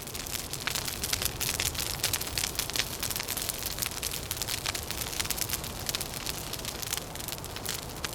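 Wood fire crackling, with dense irregular pops and snaps over a steady low rumble of wind.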